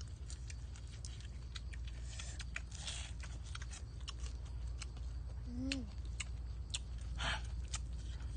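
Eating sounds: irregular wet clicks of chewing and lip-smacking over a steady low hum, with a short low murmur a little past halfway.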